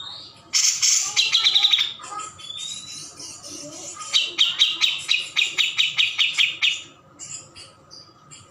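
Cucak jenggot songbird singing: two loud, fast trilled phrases of rapidly repeated high notes, about six a second, the second one long, with softer chirps between and after them.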